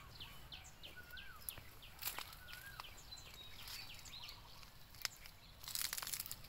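Birds calling: a run of short, quick falling chirps and a few wavering whistled notes. Near the end, leaves rustle and crackle.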